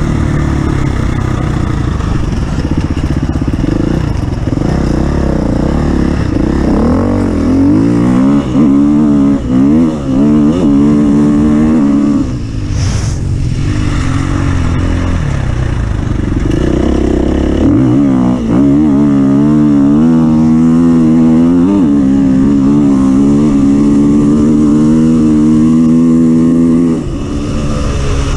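Off-road vehicle engine working hard under load, its revs rising and falling in quick surges. The engine eases off briefly about halfway with a short sharp noise, then holds at high, steady revs for about ten seconds before backing off near the end.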